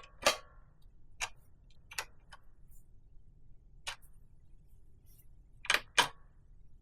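A spanner clicking against the rear brake pedal adjuster's lock nuts as they are tightened back up: about seven short, sharp metal clicks at uneven spacing, with two close together near the end.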